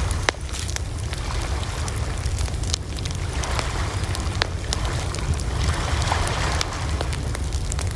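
Wood bonfire burning, with frequent sharp irregular crackles and pops over a steady low rumble of the flames.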